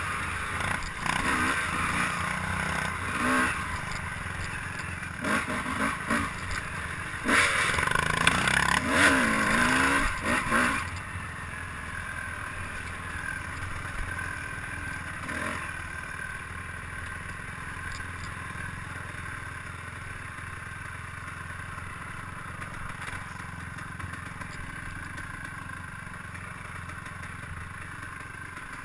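Motorcycle engine running while riding, its pitch rising and falling with the throttle over the first ten seconds or so, then settling into a steadier, quieter drone.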